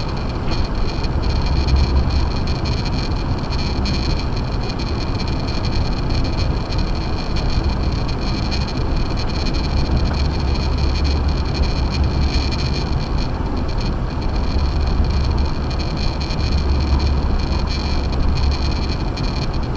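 Steady driving noise of an Acura MDX on a snow-covered road on Sumitomo Ice Edge winter tires: a constant low rumble from the tyres and drivetrain under an even hiss.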